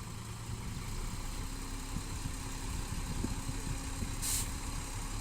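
Diesel engine of heavy earthmoving machinery running low and steady at about idle, with a brief high hiss about four seconds in.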